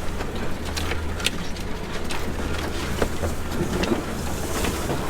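Suzuki Jimny with a swapped-in VW PD (Pumpe-Düse) turbodiesel engine driving along a rough track: a steady low engine drone with a few short knocks and rattles.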